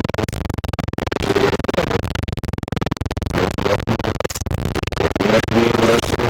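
Loud TV static: a dense, rapid crackling hiss, with brief warbling tones breaking through now and then.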